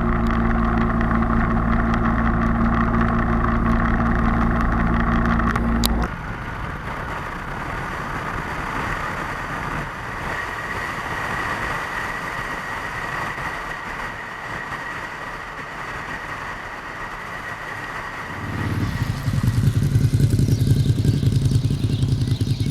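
Motorcycle engine running steadily, cutting off abruptly about six seconds in to a softer, noisier rush with a faint high whine; near the end the engine comes back louder.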